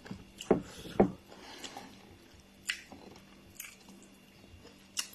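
A few scattered soft clicks and knocks over a faint steady hum.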